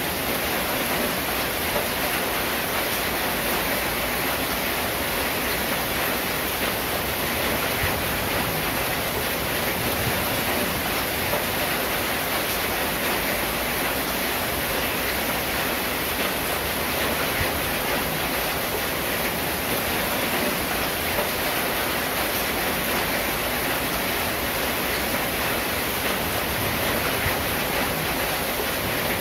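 Steady rain falling on a corrugated zinc roof, an even, unbroken hiss with no single drops or gusts standing out.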